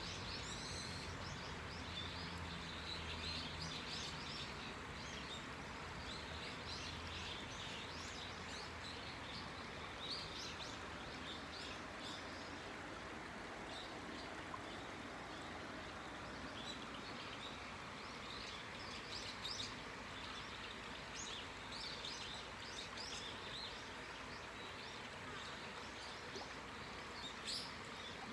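A clear river flowing with a steady rush of water, with small birds chirping on and off over it and a flurry of louder chirps near the end.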